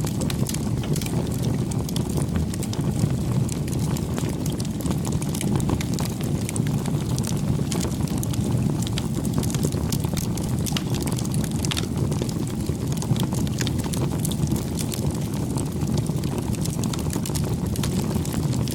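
Campfire burning: a steady low rumble with many small, sharp crackles and pops scattered throughout.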